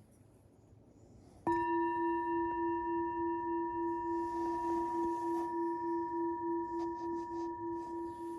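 A single bell-like metal tone, struck once about a second and a half in, rings on with a slow wavering pulse and fades only gradually.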